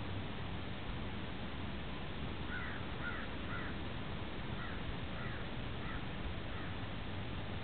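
A bird calling about ten times in short calls, in loose groups of two or three, over a steady background hiss.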